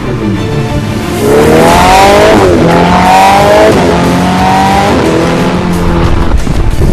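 Ferrari 488's twin-turbo V8 with a titanium aftermarket exhaust, accelerating hard through the gears: the engine note climbs, drops sharply at an upshift and climbs again about three times.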